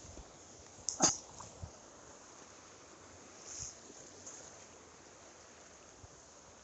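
Steady rushing of a mountain stream, with one short sharp sound about a second in.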